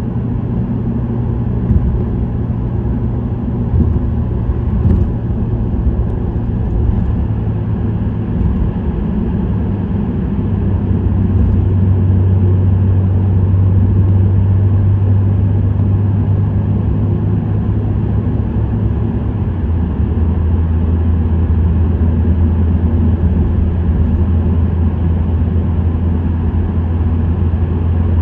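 Subaru WRX STI's turbocharged flat-four engine and STI Performance muffler exhaust running steadily while driving at speed, with road and tyre noise. The low engine note steps down in pitch twice, about a third and about two-thirds of the way through.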